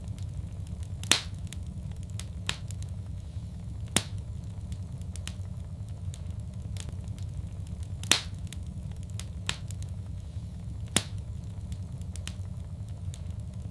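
Wood fire in a fireplace crackling, with a steady low rumble under it. Scattered small ticks are broken by four sharp, louder pops, about three seconds apart.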